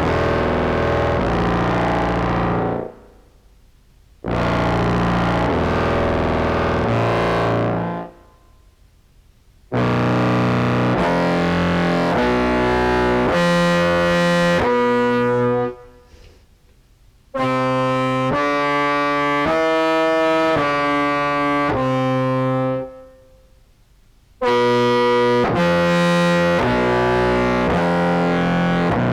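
Contrabass clarinet played through an EHX POG2 octave pedal into a Behringer Brassmaster fuzz, giving a thick, buzzy, organ-like tone with mixed octaves layered on each note. It plays five phrases of a few held notes each, stepping in pitch, with the sound fading out in the short gaps between them.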